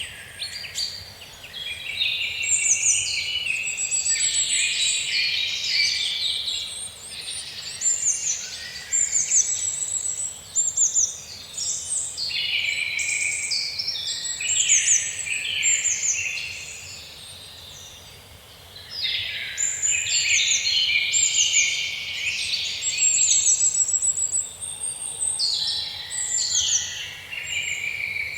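A dense chorus of songbirds: many overlapping chirps, whistles and quick descending trills, thinning out briefly about two-thirds of the way through.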